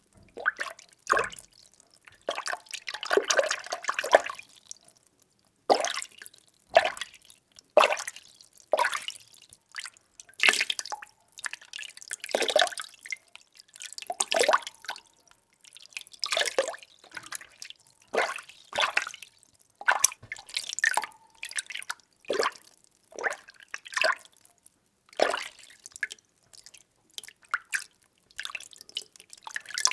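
Water being stirred: a series of short splashy swishes and sloshes, roughly one a second, with brief quiet gaps between strokes.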